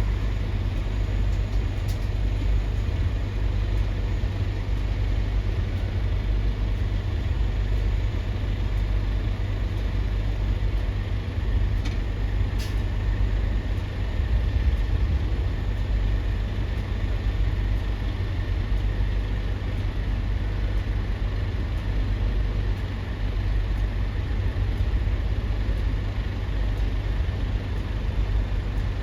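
Steady low rumble of heavy vehicles at a ferry port, with a brief sharp sound about twelve seconds in.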